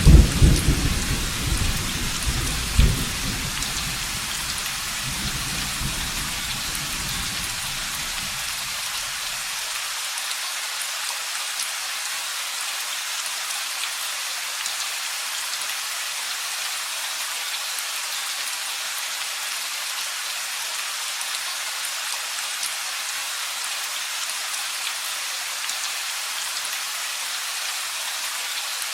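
Steady rain falling, with a loud peal of thunder at the start and a second crack about three seconds in, the rumble dying away over the next several seconds to leave only the rain.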